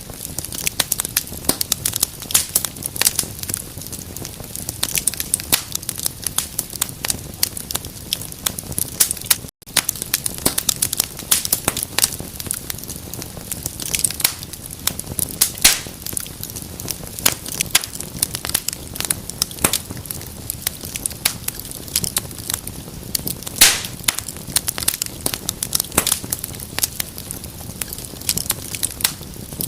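Wood fire in a fireplace crackling, with frequent sharp pops and snaps over the low steady hiss of the flames. The sound drops out completely for an instant about ten seconds in.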